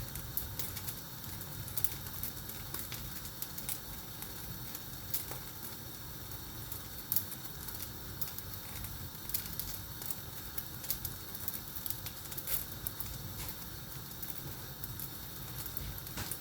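Chapati cooking in a dry, unoiled pan on the stove: a steady sizzling hiss with scattered small crackles and pops.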